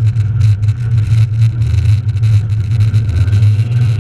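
Rally car's engine running hard at fairly steady revs, heard from inside the cabin as a loud, steady low drone.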